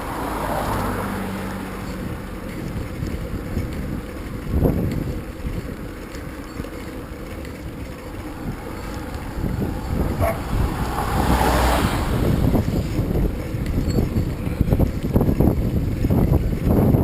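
Wind rushing over the microphone of a camera on a moving bicycle. In the second half it is joined by a rapid clatter of knocks and rattles, the sound of rough ground, growing louder toward the end.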